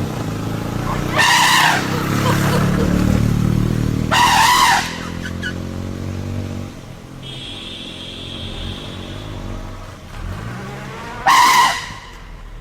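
A vehicle engine running and revving while a wild elephant trumpets loudly three times: about a second in, about four seconds in, and again near the end.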